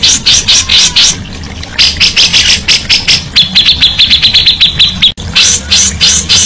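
Songbird singing a fast series of sharp, repeated chattering notes, several a second. Partway through comes a quicker run of clear high notes, then a sudden break about five seconds in before the chatter resumes. A steady low hum runs underneath.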